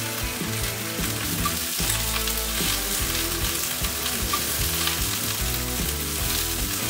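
Chunks of Japanese long onion (negi) sizzling steadily as they sear in beef tallow in a cast-iron skillet, being turned with tongs to brown both sides.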